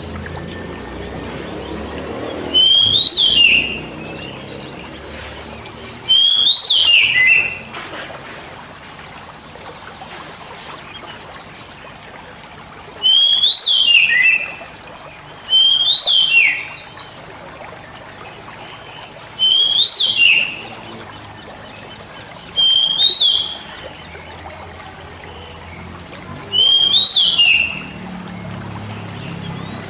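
Oriental magpie-robin (kacer) singing the same short whistled phrase seven times, each about a second long, a quick rising-then-falling whistle, with pauses of a few seconds between. A steady low hiss runs underneath.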